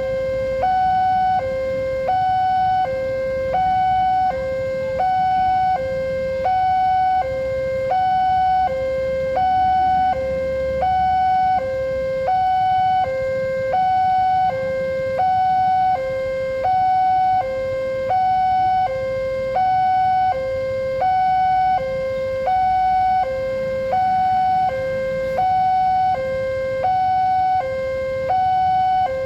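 Indonesian railway level-crossing warning alarm sounding: an electronic two-tone signal alternating steadily between a lower and a higher note, about one pair every second and a half, meaning a train is approaching and the barriers are down.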